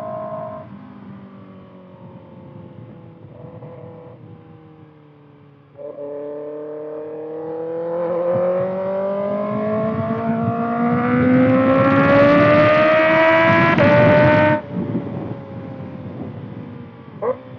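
Kawasaki ZX-6R's inline-four through a Voodoo slip-on exhaust: revs falling off the throttle, then about six seconds in the throttle opens and the engine pulls in one long rising climb, getting louder as it goes. The sound cuts off sharply as the throttle snaps shut, and the revs fall away again.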